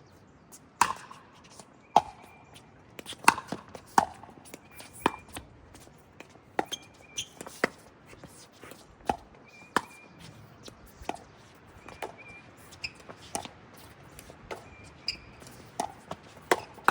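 Pickleball rally: paddles hitting the hollow plastic ball, with the ball bouncing on the court. The sharp pops come one to two a second with brief gaps, and short faint high squeaks sound between the hits.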